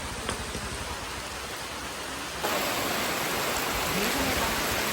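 Heavy rain falling, a steady hiss; it suddenly gets louder about halfway through.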